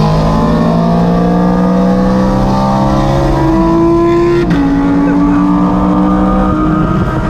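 BMW E92 M3 V8 accelerating at full throttle, its pitch climbing steadily through the revs. It upshifts about three and a half and four and a half seconds in, then eases off near the end.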